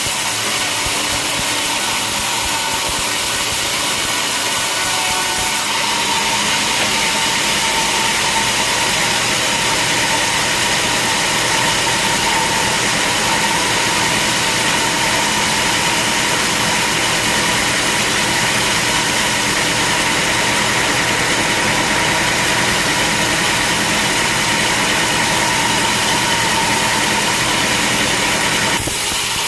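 Sawmill machinery running steadily, a loud even mechanical hum and hiss with steady tones. The sound turns abruptly brighter about six seconds in and shifts again just before the end.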